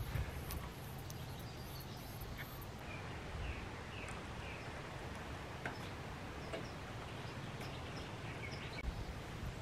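Faint bird chirps, a few short calls spaced over several seconds, over steady outdoor background noise.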